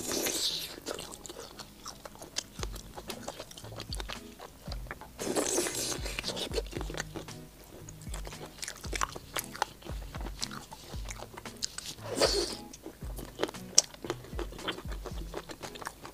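Close-miked biting and chewing of a large prawn in spicy sauce: crunchy clicks and wet mouth sounds, with a few louder bites. Background music with a low beat plays underneath.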